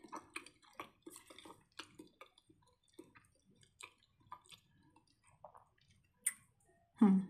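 Close-up chewing and soft wet mouth smacks as a person eats a mouthful of macaroni and cheese, with a brief louder hum near the end.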